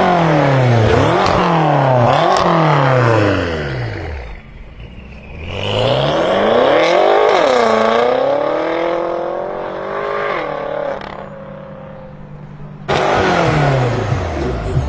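BMW M6 F06 Gran Coupe's twin-turbo V8 through an Akrapovic exhaust, loud, revved in three quick blips over the first few seconds. After a short lull comes one longer rev whose pitch falls away slowly, then the engine quietens, and a fresh burst of revs starts near the end.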